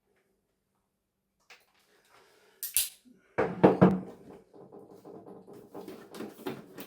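Silence, then a sharp click and a few loud knocks, followed by lighter clattering and tapping. These are hard parts of a broken television being handled and worked at while it is taken apart.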